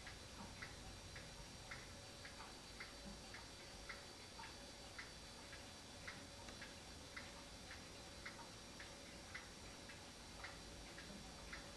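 Faint, steady ticking of a mechanical clock escapement, about two ticks a second, under a faint steady hum.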